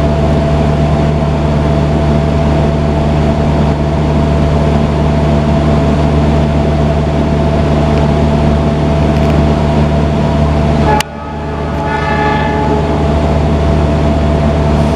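Steady rumble and hum of a moving passenger train. About eleven seconds in, the sound drops suddenly and builds back, and a brief horn sounds.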